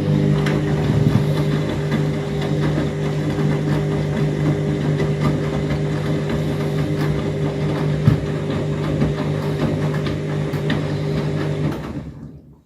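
Overloaded washing machine running on its rinse: a steady motor hum with light clicking and sloshing, which stops abruptly near the end as the drum pauses.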